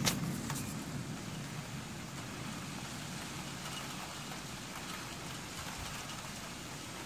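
Steady rain hissing during a thunderstorm, with the tail of a low thunder rumble dying away in the first second.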